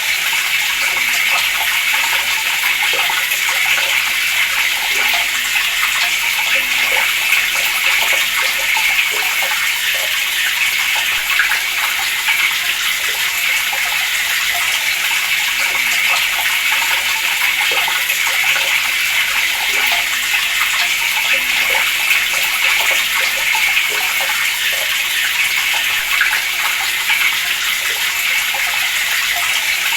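Water running steadily from a tap in a constant, unbroken stream.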